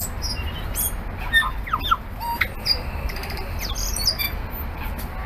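Tui singing: a quick run of varied short whistles, chirps and clicks, some very high, over a steady low rumble.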